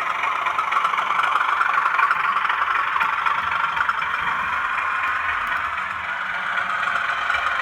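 Bachmann Class 37 model's DCC sound decoder playing its English Electric diesel engine sound through the small onboard speaker as the locomotive runs, thin and mostly in the upper middle range. The speaker is buzzing and rattling, which the owner takes for a speaker that is not good enough.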